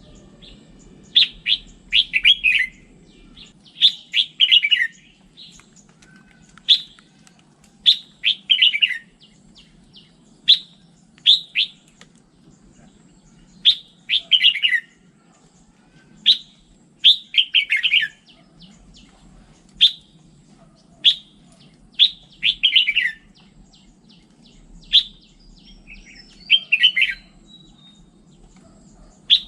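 Red-whiskered bulbul singing: loud, sharp chirps and short warbled phrases, repeated every second or two, over a faint steady low hum.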